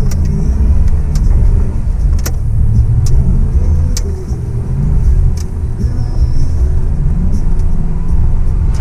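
An off-road truck driving, its engine and running gear making a low, steady rumble, with a few sharp knocks or rattles scattered through.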